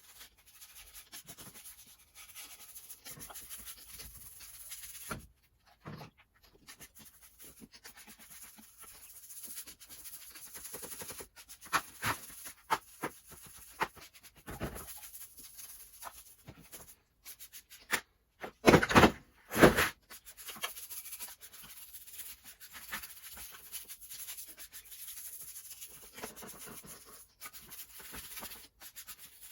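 Hand work on metal car parts: irregular scraping and rubbing with small clicks and taps, and a few loud sharp knocks about two thirds of the way through.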